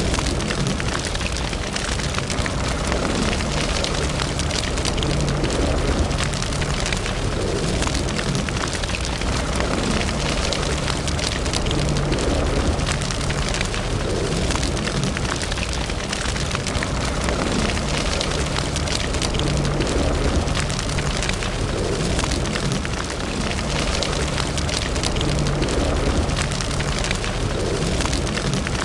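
Wood fire burning in a fireplace: a steady hiss of flame with dense, continuous small crackles and pops.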